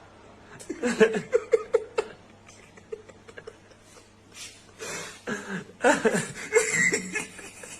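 People laughing in two bursts, the first about a second in and the second, longer one near the end, each a run of quick rhythmic 'ha-ha' pulses.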